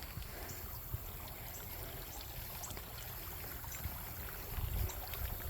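Steady rushing outdoor noise with wind buffeting the microphone, the low rumble swelling in gusts near the end.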